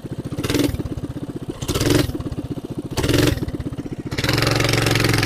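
Coleman BT200X mini bike's single-cylinder four-stroke engine through a straight pipe, idling with a pulsing beat and blipped three times, then held at higher revs for about a second near the end. The held rev is what the rider puts down to the throttle cable sticking open for a moment.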